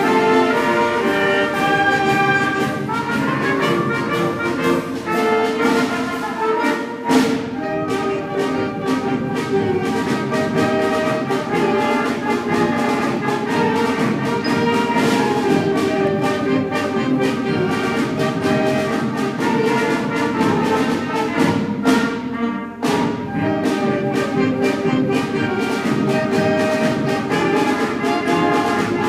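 A school concert band playing a march, with wind and brass chords over percussion and a sharp accent struck about seven seconds in.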